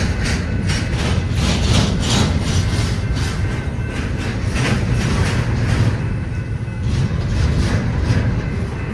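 Double-stack intermodal freight train's well cars rolling past at close range: a steady low rumble of steel wheels on rail with repeated wheel clacks several times a second.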